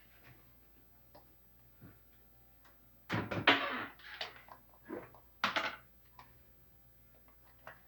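A few knocks and clattering thunks of objects being handled, loudest about three seconds in and again twice around five seconds in.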